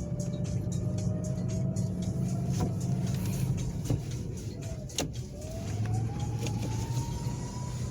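Car driving along, a steady low drone with a thin whine that climbs slowly as it gathers speed, dips briefly about halfway through, then climbs again. A couple of sharp knocks about two and a half and five seconds in.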